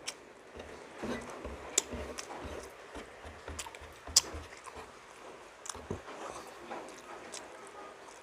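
Close-miked chewing of soft stewed milkfish, with a few sharp wet mouth clicks and smacks.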